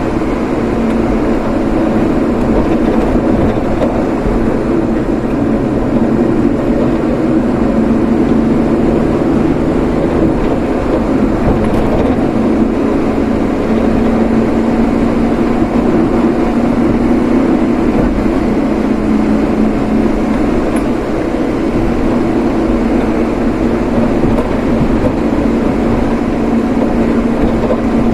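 A car driving, with a steady mix of road noise and a low engine hum that stays even throughout.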